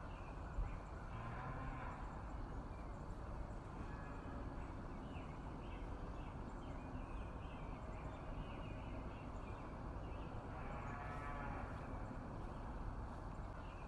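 Holstein dairy cows mooing: a few drawn-out calls, the longest and loudest one about eleven seconds in, over a steady background hiss.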